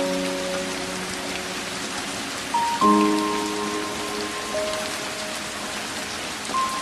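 Steady rain falling on a window, an even hiss of many drops. Soft, slow music plays over it: a chord sounds about three seconds in and rings on, and another note comes in near the end.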